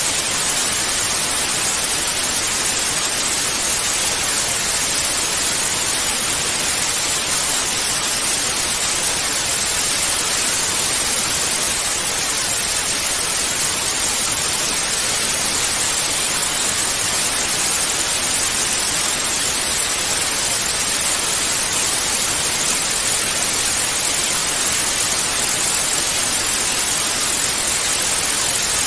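Steady hiss of TV static (white noise), even and unchanging, brightest in the treble.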